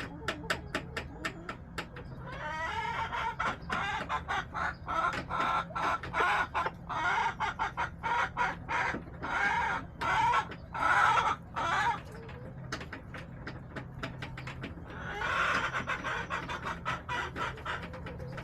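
Backyard hens clucking and calling in two loud spells, over a steady run of quick sharp taps.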